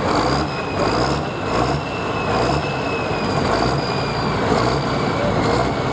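Hot farm pulling tractor's turbocharged diesel engine running hard under load, with a high turbo whistle slowly dropping in pitch over a low, uneven pulsing.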